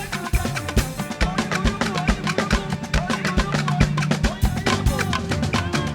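Live gospel band music with a steady drum beat and a bass line.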